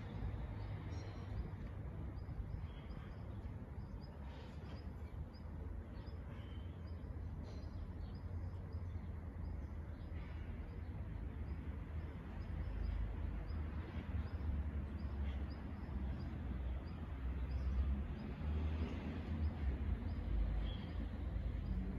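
Small birds chirping, many short high chirps repeating through, over a steady low rumble of outdoor background noise.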